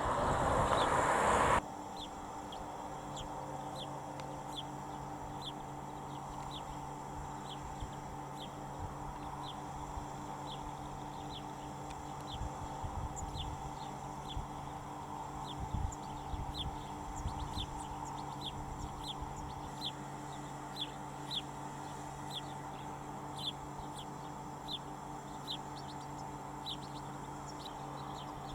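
A bird chirping repeatedly: short, high single chirps about once or twice a second, over a steady low hum. A louder rush of noise fills the first second and a half and cuts off suddenly.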